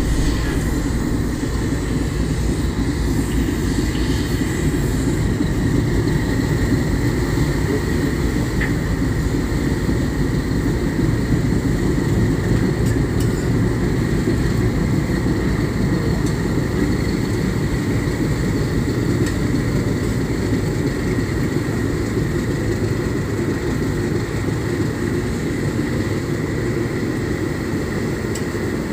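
Tugboat diesel engines running with a steady low rumble.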